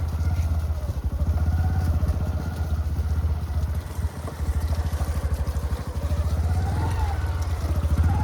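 A small engine running steadily with a rapid, even pulse, dipping briefly about four seconds in.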